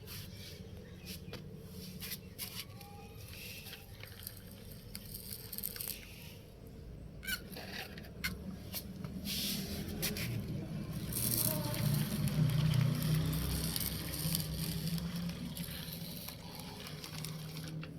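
Gravel-loaded toy tractor-trolleys rolling along the ground: a low rumble of small wheels with scattered rattles and scrapes, growing louder past the middle.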